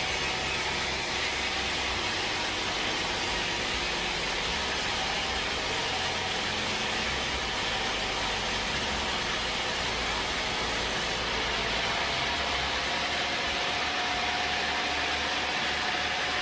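Sawmill machinery running steadily, a continuous even noise; about eleven seconds in, the hiss thins slightly and a faint steady hum comes in.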